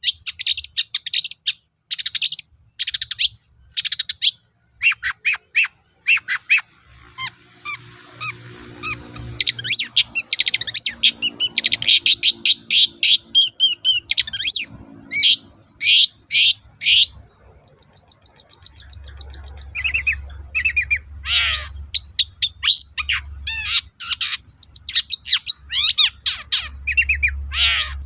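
Long-tailed shrike singing non-stop: a rapid, varied jumble of sharp, scratchy notes and chirps, with a brief steady high whistle-like trill a little past halfway.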